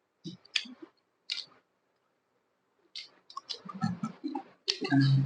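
A person eating close to the microphone: chewing and mouth smacks in short, sharp bursts, pausing for about a second and a half midway and picking up again more densely toward the end.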